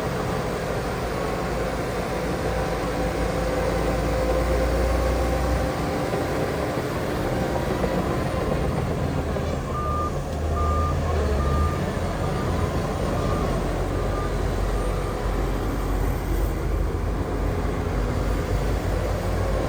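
Heavy diesel earthmoving machinery running steadily. About halfway through, a reversing alarm starts beeping, a little more than once a second, and fades out after a few seconds.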